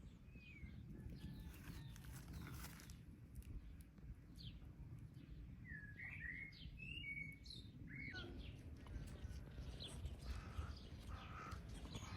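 Songbirds chirping and calling, with a quick run of short notes about halfway through, over a low steady rumble of wind.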